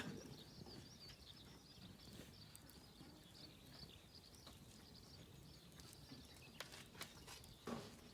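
Faint birdsong, a steady run of thin high chirps, with a few sharp clicks near the end.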